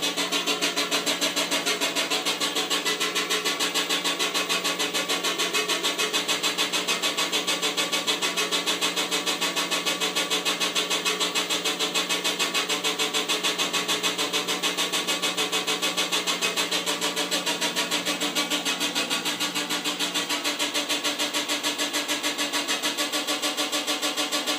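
LG TrueBalance WM2450 washing machine running noisily: a steady hum with a fast, even pulsing, a little lower near the end.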